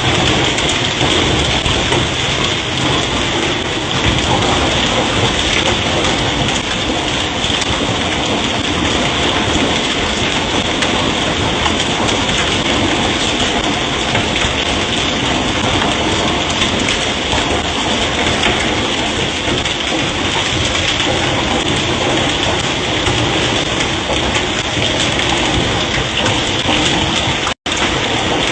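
Intense hailstorm: heavy hail coming down hard and steady, with a split-second dropout near the end.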